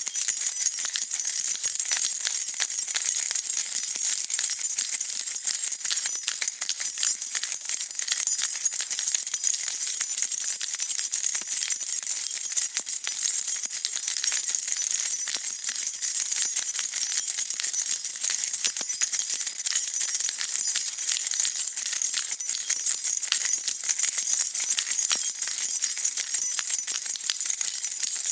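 A bunch of metal keys being shaken continuously, jingling and clinking against each other in a steady, unbroken rattle.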